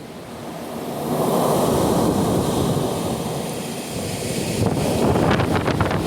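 Strong wind gusting from a cold front, the rush building up over about a second and staying loud. Near the end it buffets the microphone in rapid, irregular thumps.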